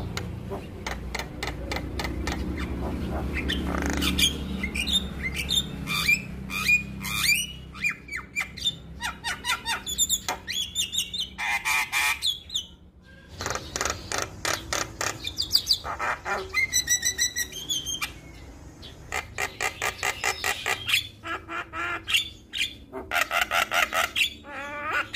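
Male Javan myna singing at length: a varied, unbroken run of harsh squawks, fast clicking rattles and short whistled notes. A low rumble sits under the first few seconds.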